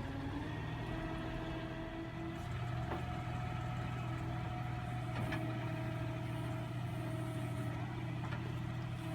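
Tractor diesel engine running steadily at a held speed, after a slight rise in pitch at the start, with a couple of faint knocks.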